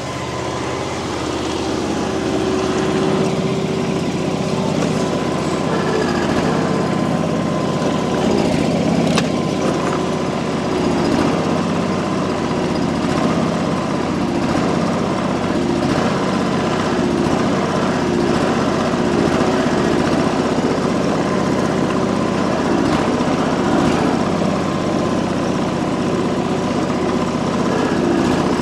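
445 garden tractor engine running steadily, picking up a little about two seconds in as it works to drag a heavier compact tractor whose wheels are frozen.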